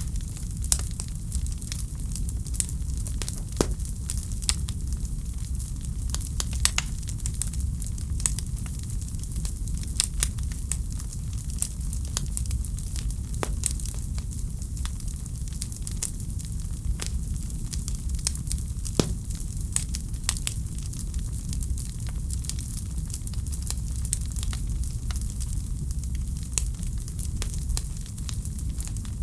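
Wood fire in a fireplace crackling steadily, with frequent sharp pops at irregular moments over a constant low rumble and hiss.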